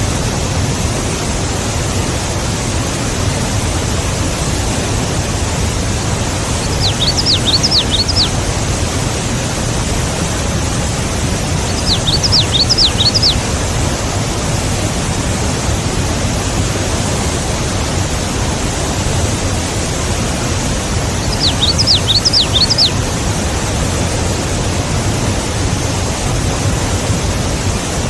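A steady, loud rushing hiss of outdoor noise, with a small bird singing a short burst of quick rising chirps three times: about seven seconds in, five seconds later, and ten seconds after that.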